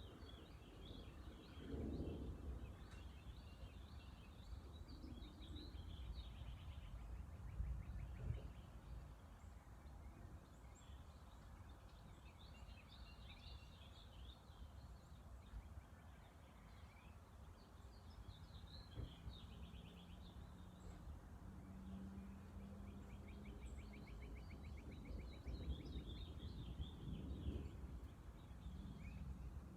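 Faint birdsong: several birds giving short calls, with a rapid trill now and then, over a steady low rumble.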